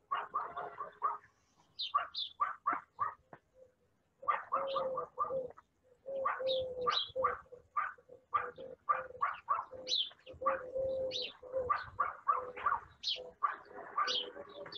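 Birds chirping: dense runs of short, quick notes with a low steady call underneath, pausing briefly twice in the first four seconds.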